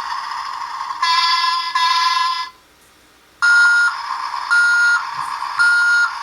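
Battery-powered sound chip in a CAT Mini Mover toy construction vehicle playing its electronic construction sounds through a tiny speaker: a buzzy engine-like effect, a short pause, then three reversing beeps about a second apart.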